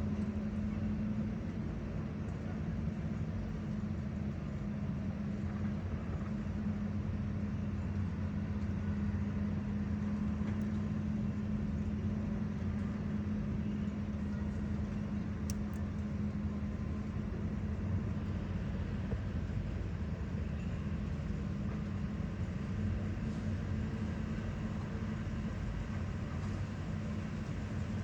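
A heavy engine, most likely from machinery working on the road, running steadily at a constant pitch with no revving.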